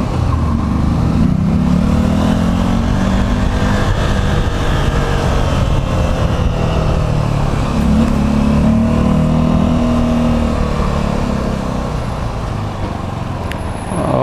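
Motorcycle engine accelerating, its pitch rising twice: about a second in and again around eight seconds, over a steady low rumble of road and wind noise.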